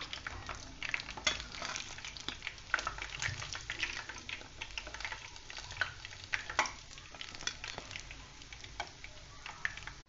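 Maize-flour and fenugreek tikkis sizzling and crackling in hot oil in a kadhai, with sharper clicks of a perforated steel spoon in the pan as they are lifted out. The crackle thins toward the end.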